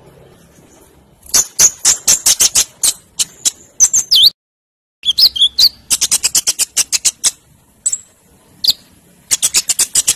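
Olive-backed sunbird (konin) singing loudly: fast runs of sharp, metallic chip notes, several a second, in repeated bursts with a few short falling whistles mixed in. The sound cuts out completely for about half a second near the middle.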